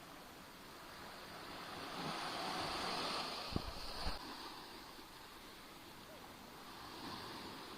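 Black Sea waves washing onto the shore. One wave swells about two seconds in and breaks with two low thumps between three and four seconds, then recedes, and a smaller wash comes near the end.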